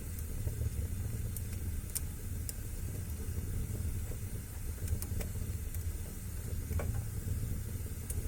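Wood fire crackling in a fireplace: a steady low rumble with sparse sharp pops and snaps scattered through it, one every second or so.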